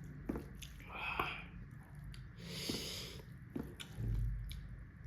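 Close-up eating sounds: chewing with small wet clicks, and a couple of short breaths through the nose.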